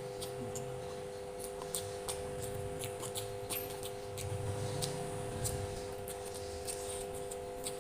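Close-miked eating: chewing and mouth smacking, heard as a scatter of small wet clicks, over a steady low electrical hum.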